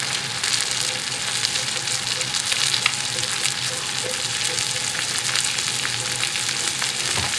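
Pistachio-crusted chicken breasts frying in hot oil in a pan, a steady crackling sizzle.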